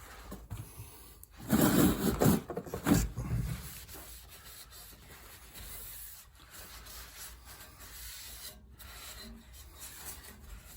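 Cloth wiping water and sanding residue off a freshly wet-sanded small car part, loud and vigorous for about two seconds near the start, then lighter rubbing as the surface is felt over by hand.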